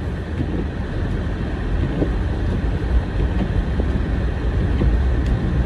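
A car driving: the steady low rumble of the engine and tyres on the road.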